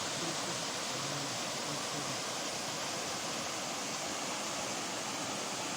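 Kocaçay waterfall's water rushing steadily.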